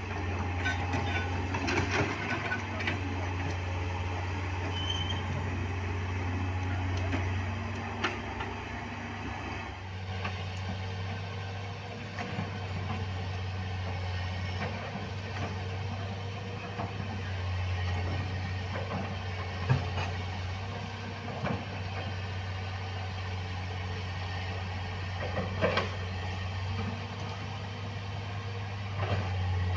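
Heavy vehicle engine running steadily with a low drone, with scattered clicks and knocks over it.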